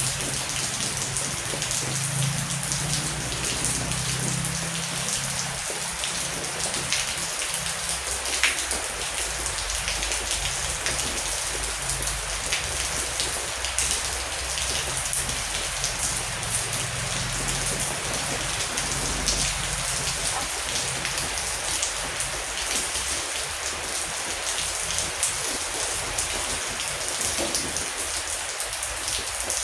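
Heavy rain falling steadily, a dense hiss of drops with individual drops ticking on a surface. A faint low rumble swells and fades a couple of times.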